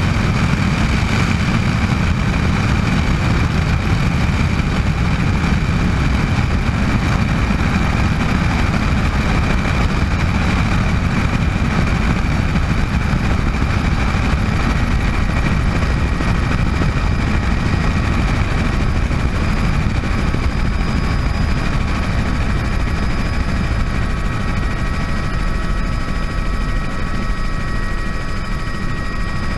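Bell 206 JetRanger helicopter running steadily: its Allison 250 turboshaft gives a high whine over the low rumble of the rotor. Near the end a few lower whine tones join in.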